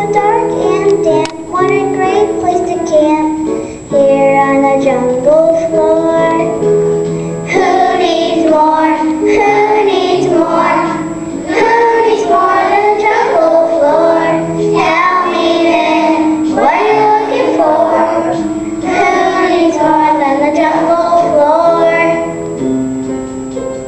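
A child singing a song over backing music, getting louder and fuller about seven seconds in.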